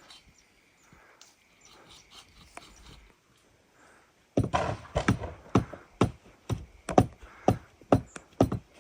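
Repeated sharp knocks, about two a second, starting a little over four seconds in, each with a brief ringing tone.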